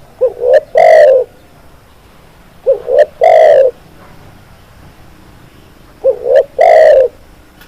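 Spotted dove (tekukur) cooing: three calls about three seconds apart, each a quick double note followed by one longer coo.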